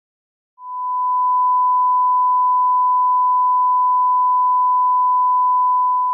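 Steady reference test tone: one pure, unwavering pitch that starts abruptly about half a second in and holds at an even loudness.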